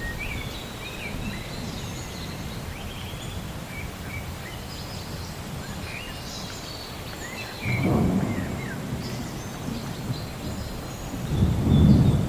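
Thunderstorm ambience: steady rain with birds chirping, and low thunder rumbling in about seven and a half seconds in and again, louder, near the end.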